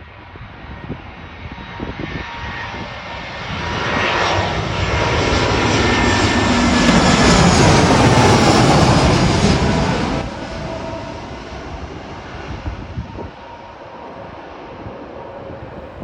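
Airliner passing low overhead on its landing approach. Its engine noise builds to a loud peak about seven to nine seconds in, with a whine falling in pitch as it goes by, then drops away quickly around ten seconds and trails off.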